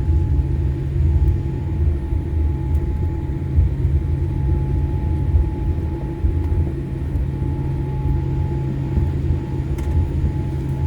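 Cabin noise of a Boeing 787 Dreamliner taxiing on the ground: a steady low rumble with a steady hum above it.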